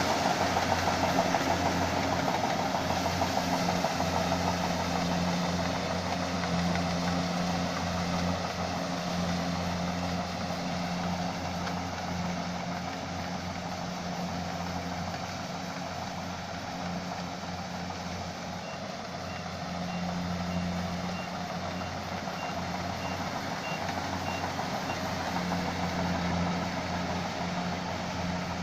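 Combine rice harvester running steadily with a constant engine hum and machine noise. Partway through, a row of short, high beeps sounds about twice a second for several seconds.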